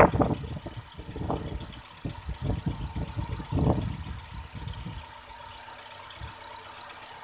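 Car engine idling, with coolant gurgling irregularly up through a bottle funnel on the radiator filler neck for the first five seconds or so, the biggest surge just before the four-second mark; after that only the steady idle remains. Bubbles rising through the coolant are what a cylinder head gasket leak test watches for.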